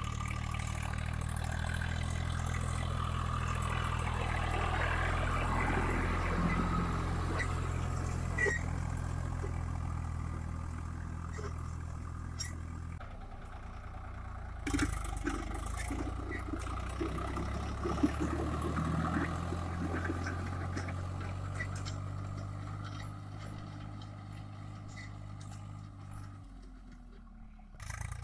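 Swaraj 744 FE tractor's three-cylinder diesel engine running steadily while pulling a disc plough. The engine note drops and changes about halfway through, with a couple of sharp clanks, and the sound fades toward the end.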